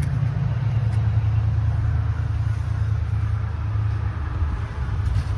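School bus engine idling: a steady low rumble.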